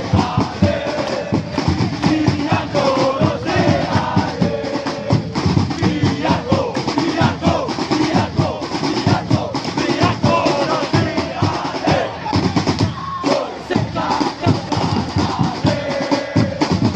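Football supporters' section singing a chant together in unison, backed by beating drums.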